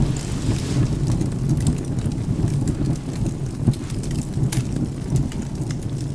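Steady low rumble of rain and thunder, with scattered sharp pops of a crackling wood fire. The loudest pop comes about four and a half seconds in.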